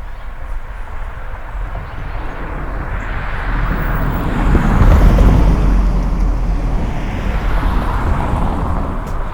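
A car driving past, its engine and tyre noise swelling to a peak about five seconds in and then fading away.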